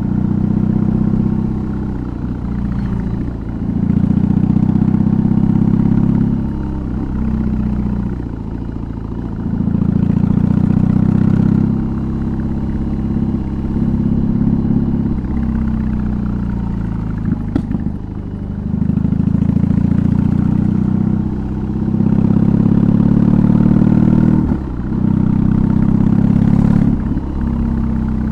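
BMW R18's big air/oil-cooled boxer twin running through an aftermarket exhaust, heard from the rider's seat while riding: the revs climb again and again, each time breaking off briefly for a gear change or a lift of the throttle.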